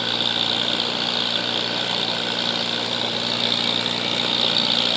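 Pulling tractor's engine running steadily at an even speed, with no revving or change in pitch.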